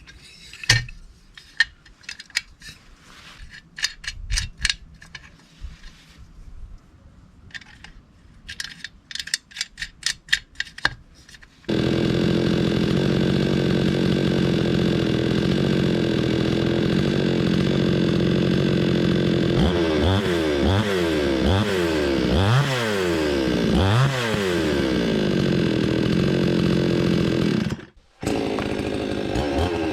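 Clicks and knocks of handling a Chinese two-stroke chainsaw, then its engine running steadily, suddenly loud about twelve seconds in. Several times in the second half it is revved up and let back down, and near the end it breaks off for a moment and goes on running.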